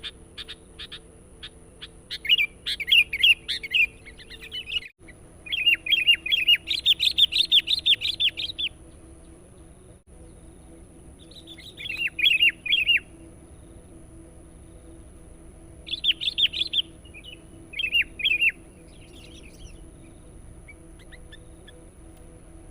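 Sooty-headed bulbul (kutilang) singing vigorously in bouts of rapid, bubbling chattering phrases with pauses between them. The longest bout runs from about 5 to 9 seconds in, and the song grows fainter and sparser near the end.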